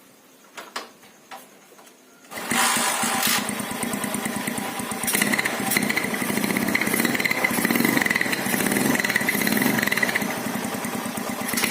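A Honda CB motorcycle with a modified Honda GL single-cylinder four-stroke engine and an aftermarket exhaust starts suddenly about two seconds in and runs loudly, growing louder a few seconds later. This is a test of the exhaust note.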